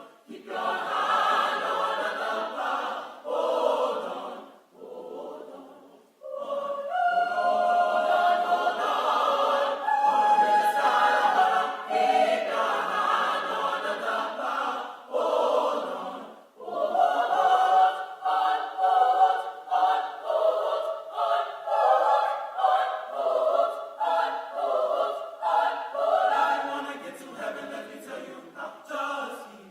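Church choir singing in phrases of held notes, with short breaks about five and sixteen seconds in.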